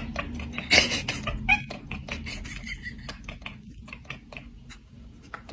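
Cat sounds at close range: many small clicks over a steady low rumble, with a few brief chirps about a second and a half in.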